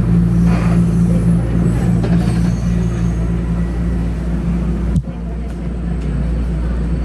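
Line 1 subway car interior noise: a steady low rumble and electrical hum. A sharp click comes about five seconds in, after which the higher hiss drops away.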